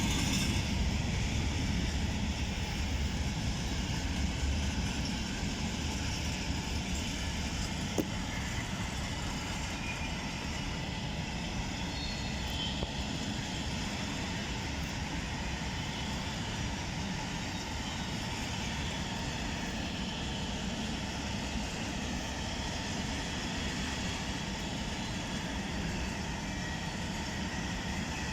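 A freight train of open coal wagons rolling past: a steady rumble of wheels on rail that eases slightly after the first few seconds, with one sharp click about eight seconds in.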